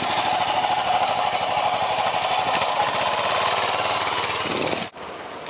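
1950 Vincent Black Lightning's 998 cc V-twin running hard, a loud, rapid, even beat of firing pulses. It cuts off abruptly about five seconds in.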